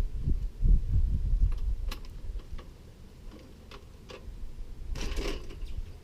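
Workshop handling noises from stripping a bicycle: dull low knocks at first, then scattered sharp metallic clicks and a brief scrape about five seconds in.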